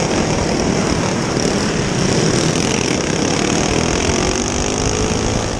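Go-kart engines running hard on a dirt track, a dense steady engine drone with several engines overlapping, which cuts off suddenly at the end.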